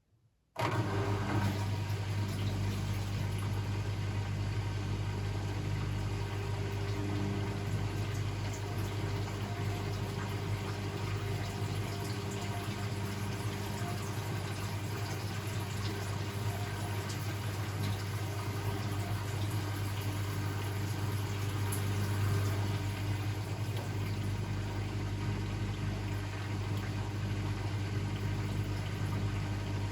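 Blomberg WAF 7442 SL washing machine starting up suddenly about half a second in, then running steadily with a low, even hum and some water sound.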